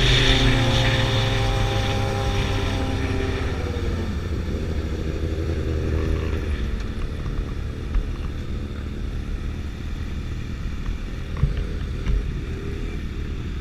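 Sport motorcycle engine, its pitch falling and fading over the first few seconds as it slows or moves away. It then settles into a lower, rough rumble, with a few short knocks near the end.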